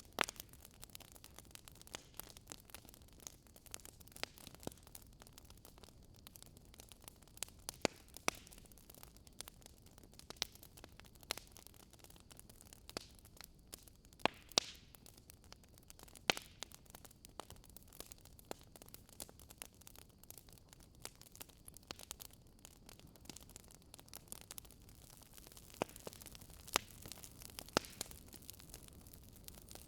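Wood burning in a fireplace, crackling: irregular sharp pops and snaps over a soft steady hiss.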